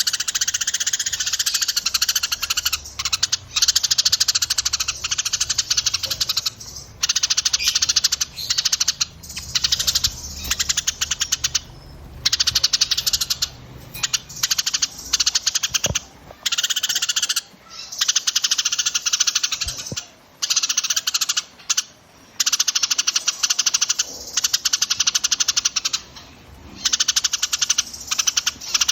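Small songbirds singing a dense, very fast chattering trill in bursts of one to three seconds with short breaks between. This is a 'burcil' masteran recording of small birds' song, used to tutor cage songbirds.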